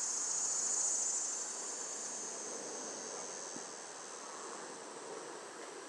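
Summer insects, crickets or cicadas, sounding a steady high-pitched drone that is loudest at first and eases off slightly after about a second, over a faint low rumble.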